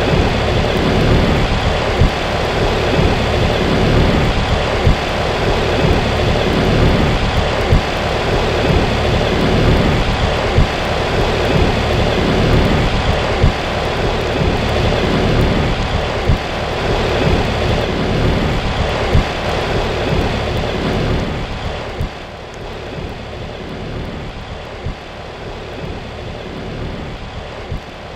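2011 Payne PH13 13 SEER heat pump outdoor unit in its defrost cycle, giving a loud rushing noise with irregular low thumps. The noise drops in level about three quarters of the way through.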